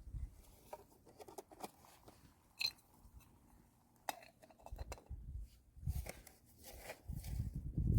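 Irregular clicks, knocks and crunching from hand work with building materials, with one sharp ringing click a few seconds in and heavier low thuds toward the end.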